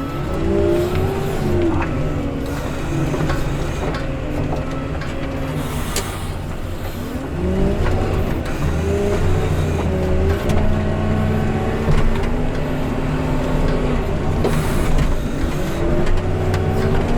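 Engine of a heavy snow-removal machine working under load, its revs rising and falling every few seconds.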